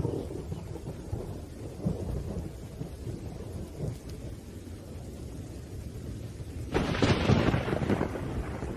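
Thunderstorm: low, rolling thunder rumbles steadily under falling rain, and a sudden louder, sharper clap of thunder breaks in about seven seconds in, then fades back to the rumble.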